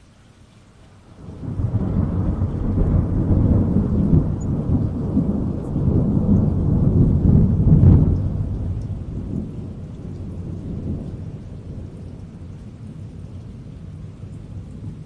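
A long rolling thunder rumble over steady rain: it builds suddenly about a second in, swells to its loudest about eight seconds in, then fades slowly while the rain carries on.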